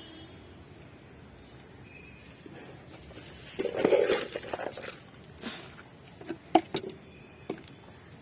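Soil being scooped and pressed into a flowerpot during repotting: a stretch of gritty scraping and rustling about halfway through, then a few short knocks and taps against the pot.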